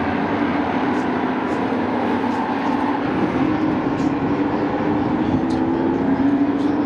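Race trucks' engines running at speed on a short oval, a steady drone whose pitch drifts a little as the trucks come round.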